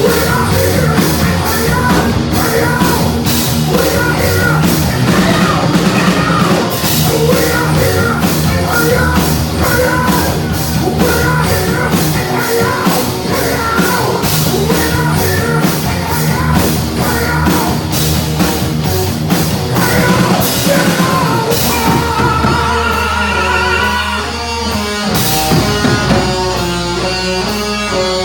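A heavy metal band playing live: distorted electric guitars, bass and steady drumming, with shouted singing. Around twenty seconds in the drumming drops back and a single guitar line stands out. The full band comes back in near the end.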